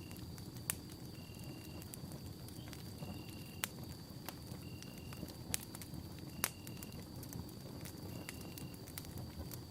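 Wood campfire burning: a steady low rumble of flames with scattered crackles and four sharp pops. Through it runs a faint steady high note, with a short higher note repeating about every second and a half.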